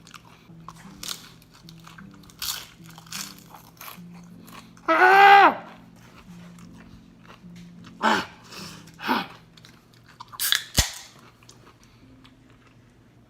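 A person biting into and chewing crunchy food, with scattered crunches over quiet background music. About five seconds in comes a loud pitched vocal sound, with shorter vocal sounds a few seconds later.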